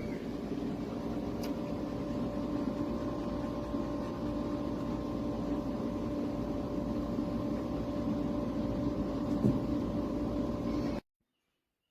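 Small USB-C powered personal air cooler's fan running with a steady whir and hum, cutting off abruptly about a second before the end.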